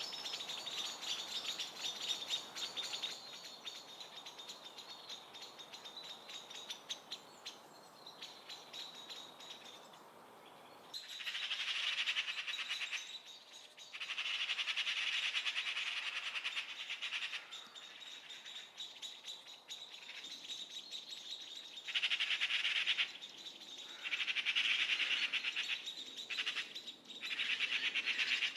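European goldfinch singing in long, rapid twittering phrases. Softer, continuous chatter gives way after about ten seconds to several louder bursts of song with short pauses between them.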